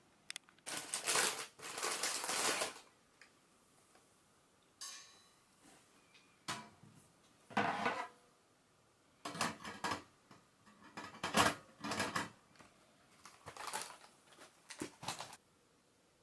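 Metal camping gear being handled, clinking and scraping in about seven short bursts with pauses between them, and a brief ring about five seconds in.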